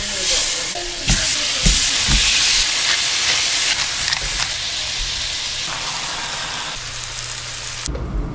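Two raw hamburger patties sizzling in melted butter in a hot frying pan, a steady hiss. Near the end the sizzle cuts off abruptly, giving way to a low rumble.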